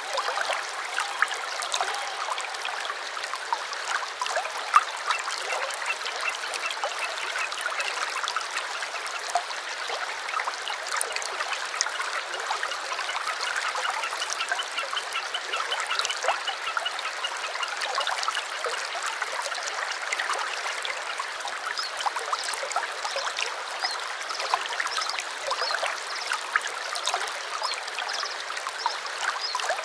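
A stream trickling and babbling steadily, with birds singing over it. A rapid trill of repeated high notes comes about halfway through.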